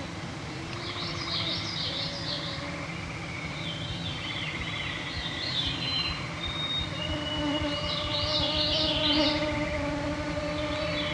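Mosquitoes whining close around the microphones in a steady wavering drone, with songbirds singing a short fluttery phrase every few seconds over it.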